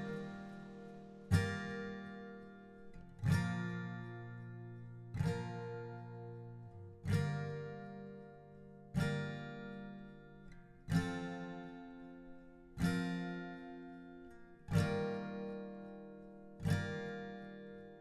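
Background music: slow acoustic guitar, with a chord struck about every two seconds and left to ring out.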